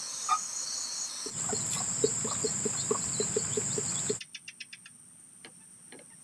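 Night insects and crickets chirring steadily. In the middle, a regular train of short low pulses runs at about four a second. The sound changes abruptly twice and is much fainter near the end.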